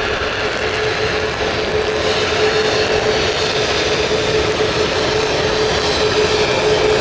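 Jet airliner's engines running as the plane passes, a steady rushing roar with a constant hum under it, slowly growing louder.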